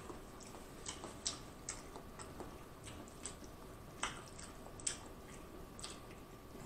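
Quiet mukbang eating sounds: a person chewing with soft, irregular wet clicks and smacks while his fingers pick through a saucy seafood boil, with a few sharper clicks about a second in and around four seconds.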